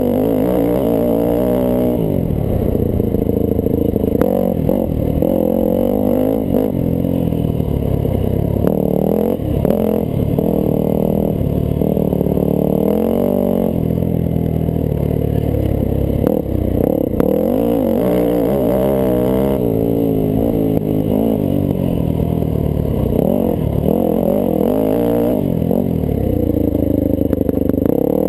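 1998 Yamaha YZ400F four-stroke single-cylinder dirt-bike engine under way, heard from a helmet-mounted camera, its revs rising and falling again and again as the rider opens and closes the throttle.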